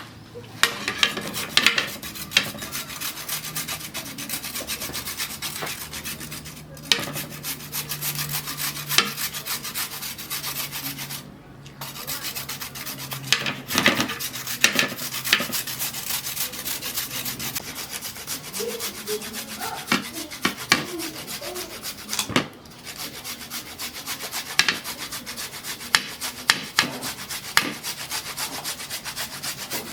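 Vegetables being grated on a hand grater: rapid rasping strokes, with brief pauses three times.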